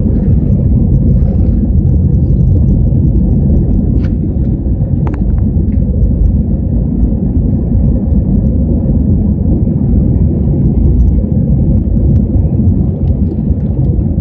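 Airliner engines and airflow heard from inside the cabin during takeoff: a loud, steady rumble.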